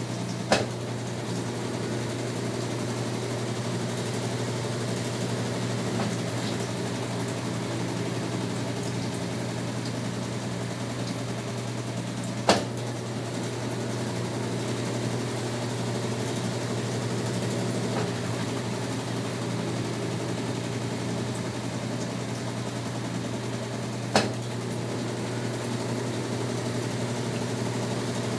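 Brastemp Tira Manchas Pro 12 kg washing machine running mid-wash, a steady motor hum. A sharp click comes about every twelve seconds, three in all.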